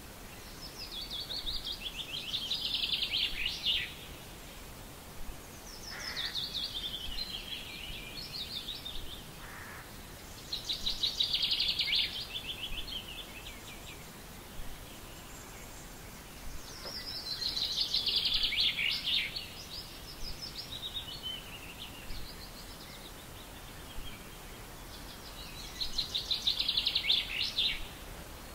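A songbird sings a short, fast trilled phrase that falls in pitch, about five times, each phrase two to four seconds long. A faint steady outdoor hiss lies beneath.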